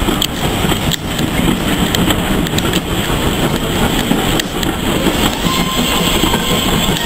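Railway passenger coaches rolling past at close range, their wheels rumbling steadily and clicking over the rail joints.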